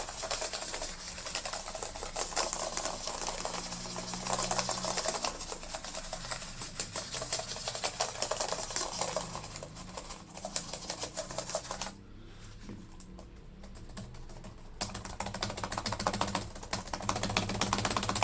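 Laptop keyboard keys clicking rapidly as they are pressed over and over, working cleaning fluid into keys that stick after liquid damage. The clicking stops for about three seconds two-thirds of the way through, then resumes.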